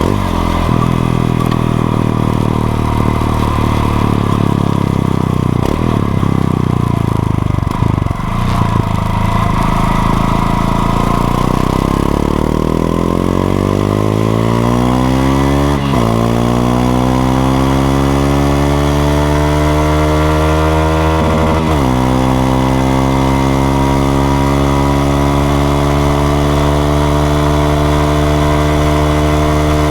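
Honda XRE 190's single-cylinder engine under way. It runs steadily, eases off about eight seconds in, then accelerates with rising pitch. The pitch drops abruptly twice, about five seconds apart, as it shifts up, and it then holds a steady cruise.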